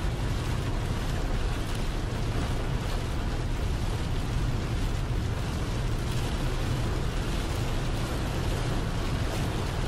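Heavy rain drumming on a semi truck cab's windshield and roof, over the steady low rumble of the truck's engine and tyres on the wet highway, heard inside the cab.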